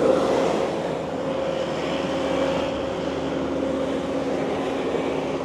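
Diesel heavy-equipment engine running steadily under load, with a steady hum held throughout.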